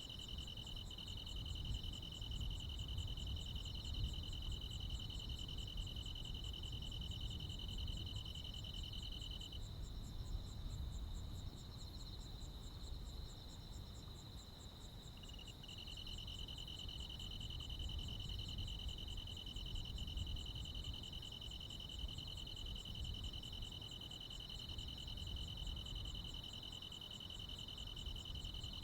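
Night chorus of crickets and other insects: several steady trills at different pitches, one of which falls silent about ten seconds in and starts again a few seconds past the middle, over a low background rumble.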